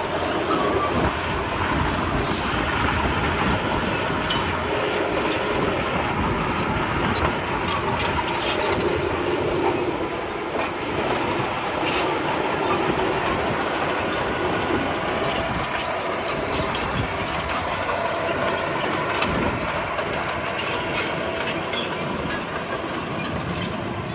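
Komatsu D31P crawler bulldozer working: its diesel engine running steadily under load, with many sharp metallic clanks from the steel tracks.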